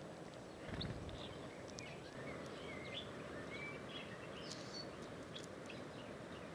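Small songbirds chirping and whistling in short, scattered phrases over steady background noise, with a brief low thump about a second in.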